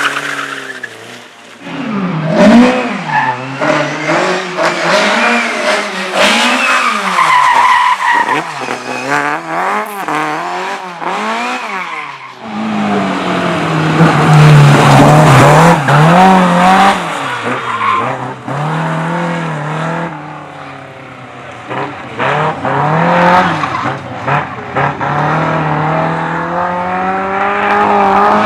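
A competition car's engine revving hard, its pitch swinging up and down about once a second, then held high and steady for a few seconds before swinging again, with tyres squealing as the car is driven sideways.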